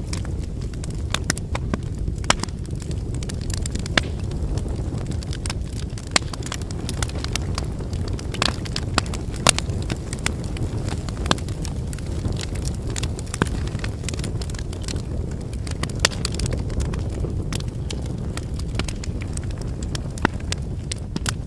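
Wood campfire burning: a steady low rumble of the flames with irregular sharp crackles and pops from the burning logs, a few of them louder.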